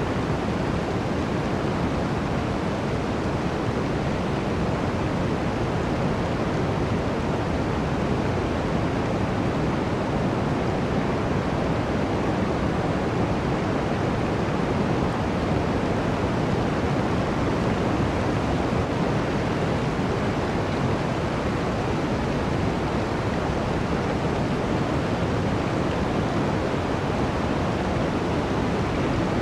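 Blizzard wind: a steady, even rush of noise with no gusts, breaks or crackles.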